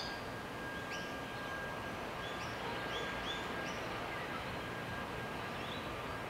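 Outdoor background noise with a small bird giving a series of short, high chirps, most of them bunched in the middle, plus a faint steady high tone.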